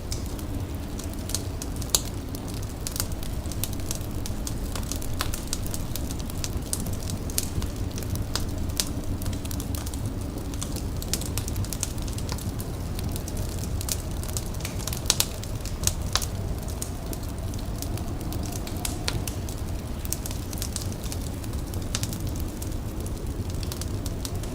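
Fire crackling, with irregular sharp pops over a low steady rumble; the loudest pops come about two seconds in and again about halfway through.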